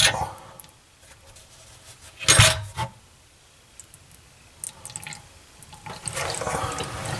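A knock at the bathroom sink about two seconds in and a few light ticks, then water starts running into the sink basin near the end as the repaired pop-up drain is tested.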